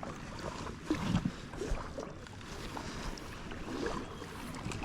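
Water splashing and lapping around a kayak on a lake, with a couple of soft swells about one second and four seconds in.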